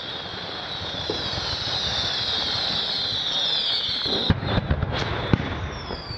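Fireworks going off in a display: many whistling fireworks, their whistles falling in pitch and building in loudness, then a run of sharp bangs and cracks from about four seconds in.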